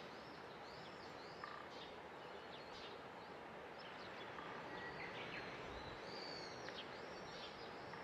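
Small birds calling, a busy string of short, arched, high-pitched notes, some overlapping, over a faint steady outdoor background hiss.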